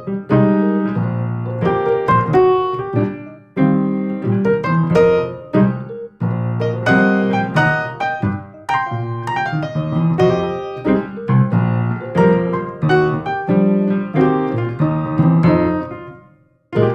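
Piano music: a melody of struck chords and notes, fading away near the end.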